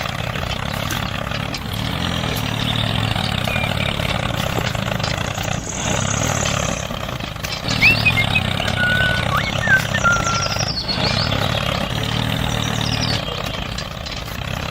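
Small engine running steadily, with a few short high chirps about eight to ten seconds in.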